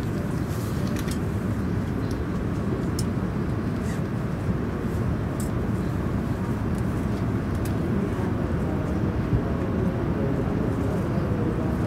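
Steady low rumble and hum inside a car of an E5 series Shinkansen, with a few faint light clicks, as the train starts to pull away from the platform.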